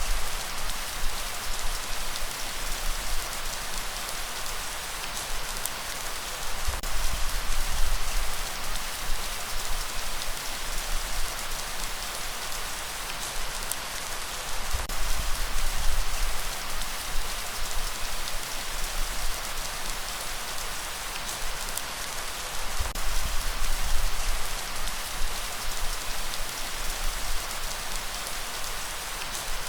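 Steady light rain falling, an even hiss of drops, with a low rumble of breeze that swells and fades every few seconds.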